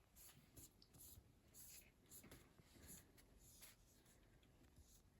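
Faint, irregular strokes of a paintbrush spreading paint on a leaf, barely above near silence.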